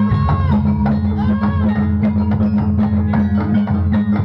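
Javanese jaranan dance music: drums and struck percussion over low held tones, with a melody line that bends up and down in pitch.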